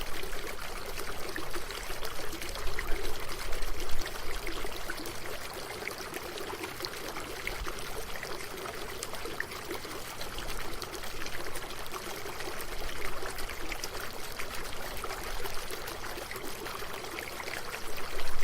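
Running water flowing steadily, with a continuous rush and many small splashes and trickles; a little louder in the first few seconds.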